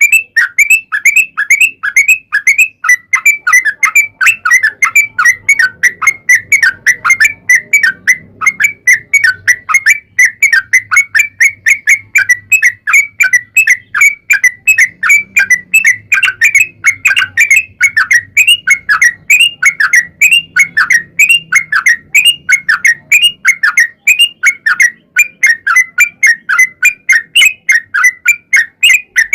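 Yellow-vented bulbul (trucuk) singing a long, unbroken run of quick chirping notes, about three to four a second.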